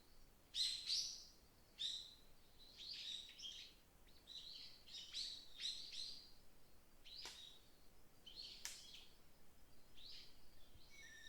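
Wild birds chirping in a forest: a quick run of short, high chirps, about a dozen, loudest in the first couple of seconds, over a faint steady hiss of wind.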